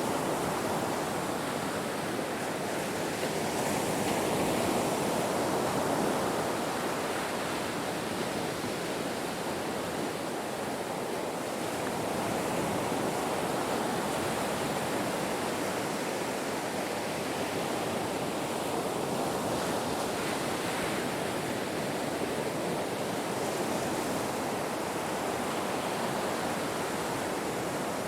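Ocean surf washing on a shore: a continuous rushing wash of breaking waves that swells gently and eases, with no single sharp crash.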